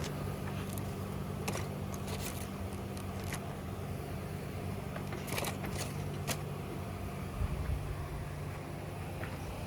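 A steady engine hum with scattered light clicks and rustles. The hum drops away about eight seconds in.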